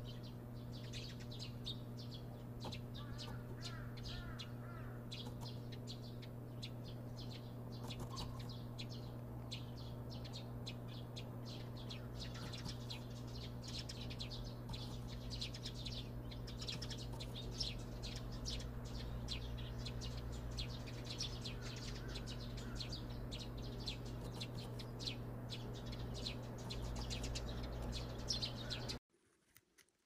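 Birds chirping: a dense, continuous run of short high chirps, several a second, over a steady low hum. It cuts off suddenly near the end.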